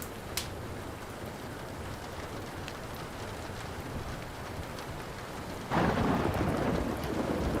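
Steady rain with a few sharp crackles from a wood fire. About six seconds in, a loud clap of thunder breaks and rumbles on.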